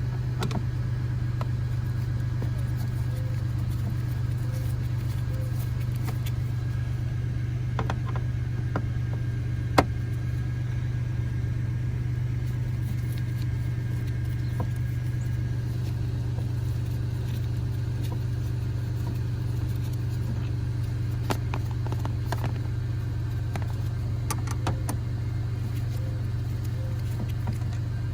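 Scattered clicks and light taps of a screwdriver and screws as the glove compartment screws are taken out, one sharper click about ten seconds in, over a steady low hum.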